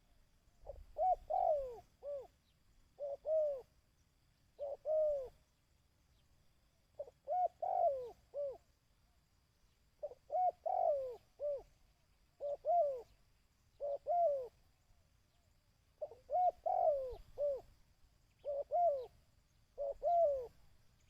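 A dove cooing in short repeated phrases of two to four swooping coos each, about ten phrases a second or two apart. These are 'kích bổi' calls, the coos used to stir up and train a decoy dove.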